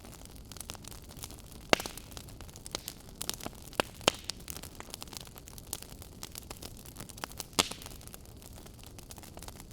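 Wood fire burning in a fireplace: a steady low hiss with irregular crackles and snaps, the sharpest pops a little under two seconds in, around four seconds and about seven and a half seconds in.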